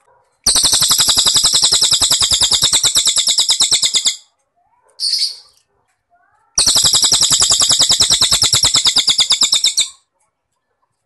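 White-rumped shama (murai batu) singing cricket-like (jangkrik) phrases: two long, rapid, evenly pulsed trills at a steady high pitch, each lasting about three and a half seconds, with a short high note between them.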